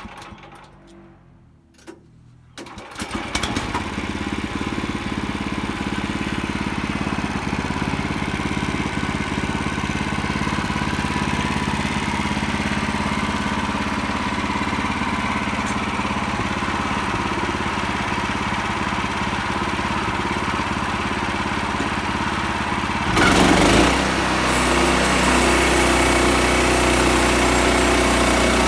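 Sawmill's engine starting about two and a half seconds in, then running steadily. Near the end there is a brief loud surge, and it settles into a louder, steady run on a different note.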